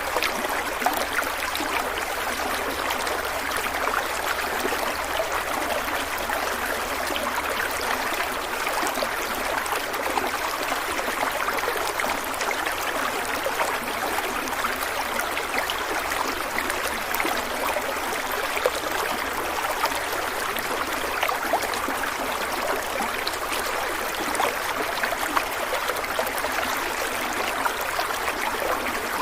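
Stream water flowing and splashing steadily, a dense even rush with many small bubbling and trickling splashes.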